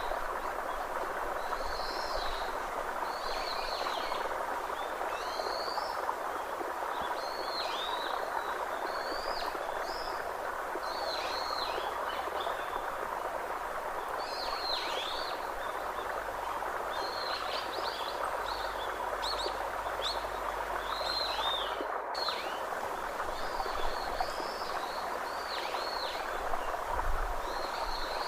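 Birds chirping, a string of short arched calls one after another, over a steady rushing background noise.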